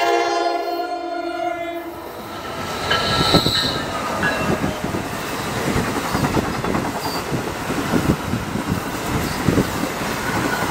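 NJ Transit commuter train sounding its multi-note horn in a held chord that cuts off about two seconds in. It then runs through the station past the platform, with steady rolling noise and wheels clattering over the rails, and a brief high squeal about three seconds in.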